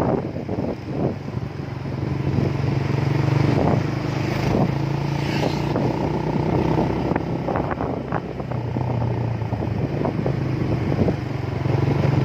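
Motorcycle engine running at a steady speed during a ride, with scattered short knocks and rattles.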